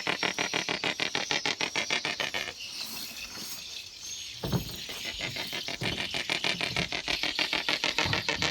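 Pet stork clattering its bill in a fast, even rattle of about ten clicks a second. The rattle breaks off after about two and a half seconds and starts again about two seconds later.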